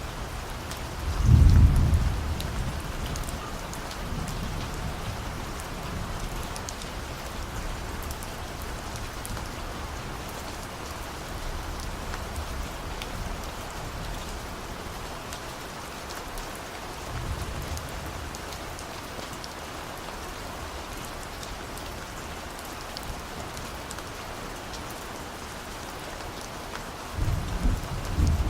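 Steady rain falling, with distant thunder rumbling low: a strong roll about a second and a half in, a fainter one in the middle and another near the end.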